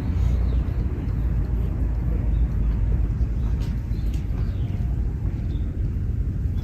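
Park ambience: a steady low rumble, with a few faint bird chirps now and then.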